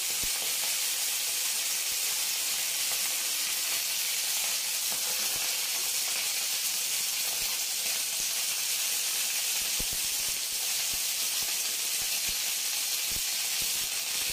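Steamed broccoli florets sizzling in hot mustard oil in a metal kadai: a steady, even hiss. A few faint knocks of the spatula against the pan come in the last few seconds.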